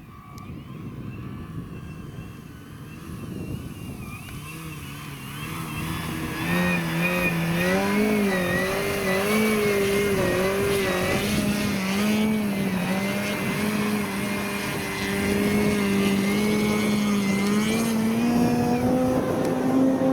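Radio-controlled airplane's motor and propeller buzzing with a wavering pitch. It grows louder about a third of the way in and rises in pitch near the end.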